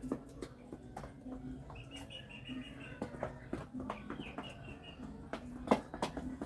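Chickens pecking at feed, a scatter of sharp irregular taps, with hens giving soft quick chirping calls now and then.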